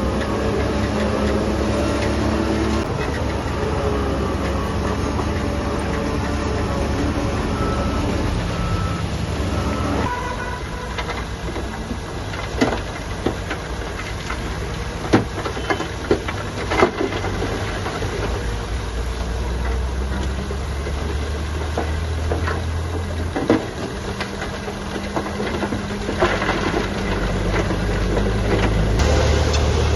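Heavy diesel construction machinery running, its engine note shifting up and down, with several sharp metallic clanks in the middle stretch.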